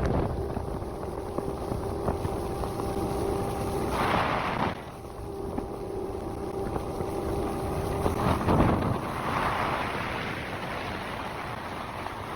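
Wind on the microphone on a fishing boat, with a steady motor hum that cuts out briefly about four seconds in, comes back, and stops at about eight seconds.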